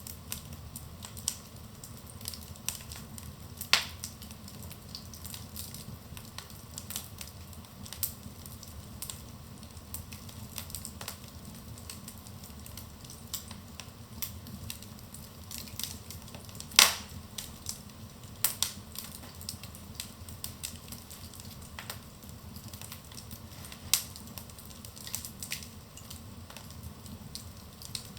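Wood fire burning in a fireplace: a steady low rumble of flames with irregular crackles and sharp pops of burning logs, a few of them louder, about 4, 17 and 24 seconds in.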